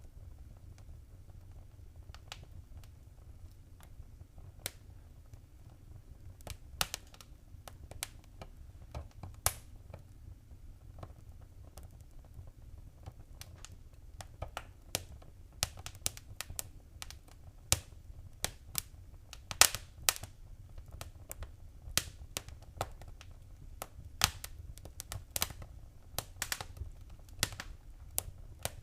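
Wood fire crackling in a fireplace: irregular sharp pops and snaps over a low, steady rumble of flame. The pops come more often in the second half.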